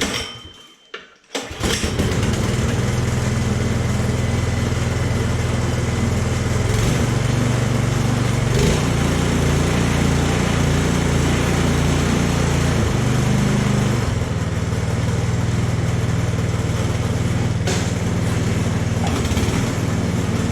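Craftsman snowblower engine starting about a second and a half in, then running steadily with slight shifts in speed. The carburetor has just been cleaned of gummed-up old gas, the fault that had kept it from starting.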